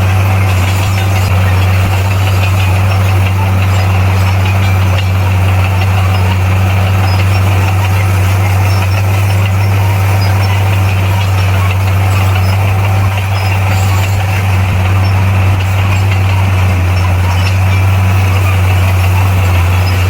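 Bulldozer's heavy diesel engine running at a steady speed: a loud, even low drone that hardly changes.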